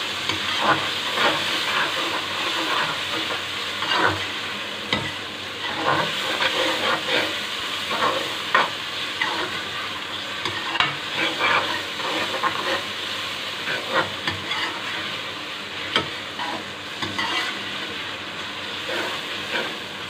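Tomatoes, garlic and green chillies frying in a metal wok, sizzling steadily, while a metal spoon stirs them and scrapes and knocks against the pan in frequent irregular clicks.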